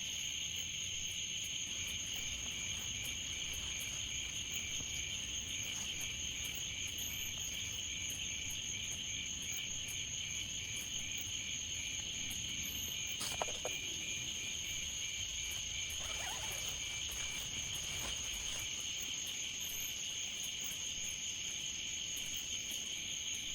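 Crickets and other insects trilling steadily in a chorus, one voice pulsing in an even rhythm, with a brief sharp sound about halfway through.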